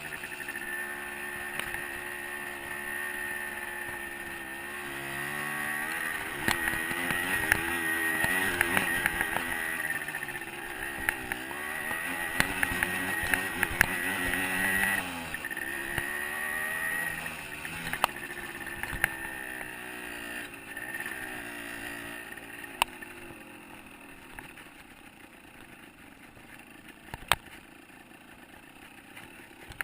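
A 125cc two-stroke dirt bike engine revving up and down as it rides the trail, with a few sharp knocks. The engine sound dies down over the last several seconds.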